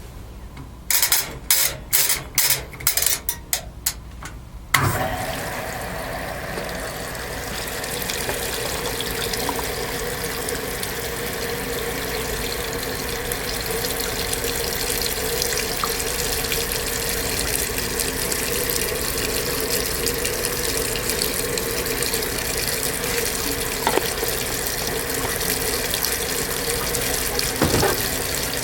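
Water rushing steadily into a Kenmore portable washing machine's tub from a sink faucet hose, with a steady hum in the flow. It starts with a thump about five seconds in, after a run of about eight short loud bursts.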